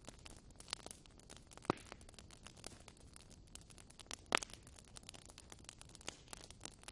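Burning wood crackling in a fireplace: a steady scatter of small sharp pops, with two louder pops, one under two seconds in and one a little past four seconds.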